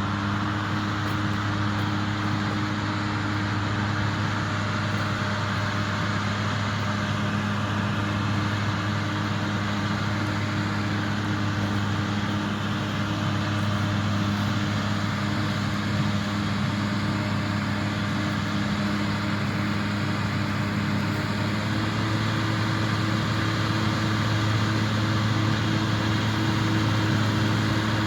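John Deere 4250 tractor's six-cylinder diesel engine running steadily at working revs, with its pitch rising slightly about three-quarters of the way through.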